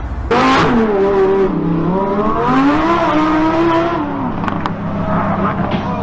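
A car engine revving, its pitch rising and falling over several seconds. It comes in suddenly about a third of a second in, with a steady low hum under it and a couple of short clicks in the middle.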